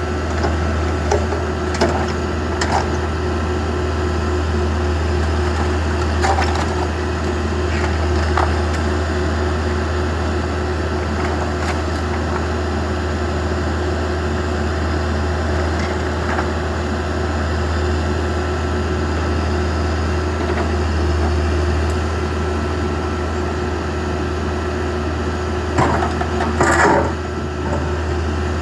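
Backhoe engine running steadily under load while the wood of a garage cracks and splinters in scattered snaps, with a louder burst of cracking and crunching near the end.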